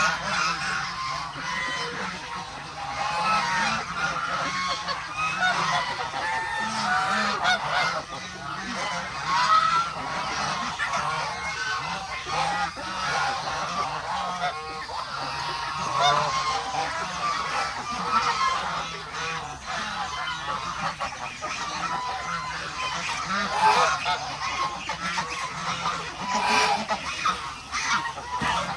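A flock of geese honking, many calls overlapping in an unbroken din, with other farm fowl mixed in.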